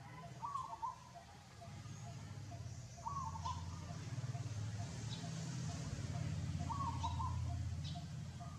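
A bird calling, a short call repeated three times about three seconds apart, over a low steady rumble and a few faint high clicks.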